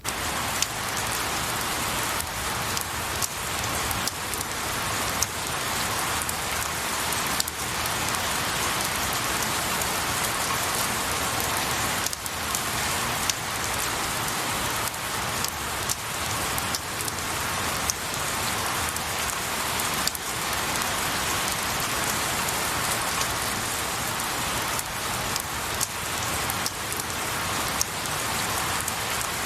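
Steady rain falling on pine needles and a tree, an even hiss with many sharp individual drops ticking through it.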